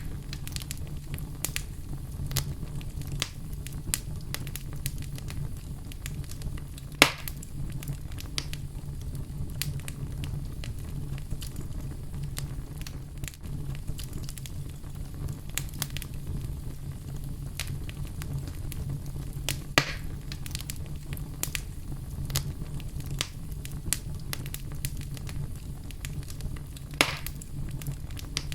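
Wood fire burning in a fireplace: a steady low rumble of flames with frequent small crackles and three sharper pops, about 7, 20 and 27 seconds in.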